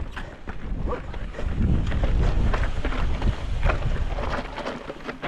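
Wind rumbling on the microphone of a mountain bike moving over rough trail, with scattered clicks and rattles from the bike.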